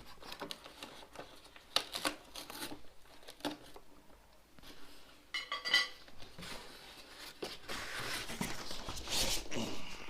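Microwave accessories and their plastic packaging being handled: scattered knocks and clicks, a short ringing metal clink a little past the middle, then plastic wrapping rustling and crinkling through the second half.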